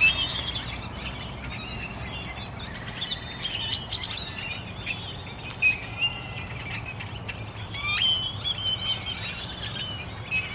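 A large flock of starlings gathered to roost in trees, calling all at once: a dense, continuous chorus of overlapping chirps, whistles and clicks, with a sharply rising whistle about eight seconds in.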